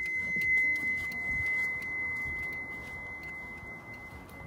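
A steady high-pitched electronic tone, held without a break, with faint scattered clicks under it.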